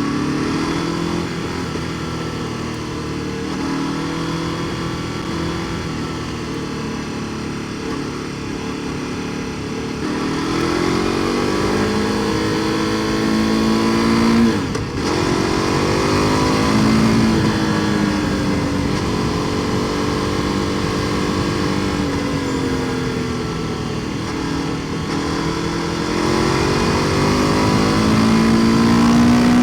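KTM 1290 Super Duke R Evo's V-twin engine through an Akrapovič exhaust, pulling through the gears under way. The pitch climbs, drops sharply at a gear change about 15 s in, evens out for a while, then rises again near the end.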